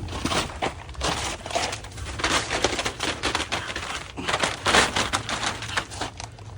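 Irregular crunching and crackling rustles with sharp clicks, from movement close to the microphone in a crawlspace under a house.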